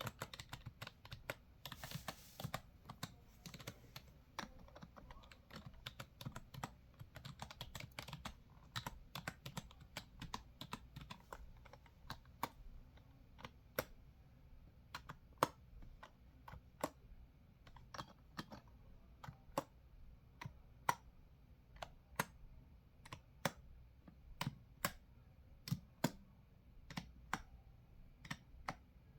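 Typing on a computer keyboard: a quick run of keystrokes for the first dozen seconds or so, then slower, separate key clicks.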